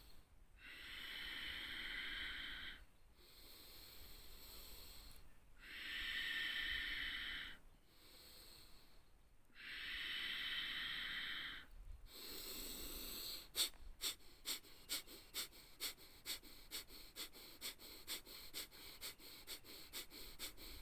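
A person breathing through the nose for Kapalbhati pranayama: three deep, slow breaths in and out, then, about halfway through, a fast run of short, sharp, forceful exhalations pumped from the belly, several a second.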